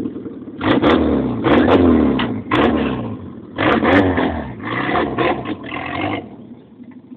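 Old hatchback's petrol engine revved hard in about six quick bursts, pitch climbing and falling with each, as the car is driven on grass. It drops back to a low running hum near the end.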